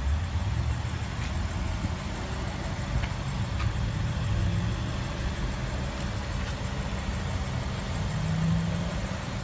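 Steady low rumble of a motor vehicle engine idling, with a few faint clicks.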